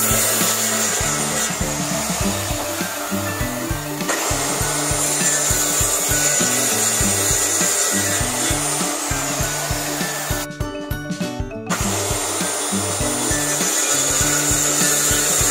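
A power tool running steadily on wood, with a high whine; it stops for about a second about two-thirds of the way through, then starts again. Background music plays underneath.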